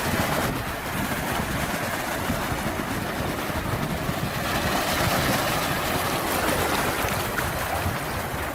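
Sea waves washing in as a steady rushing noise that swells slightly about halfway through.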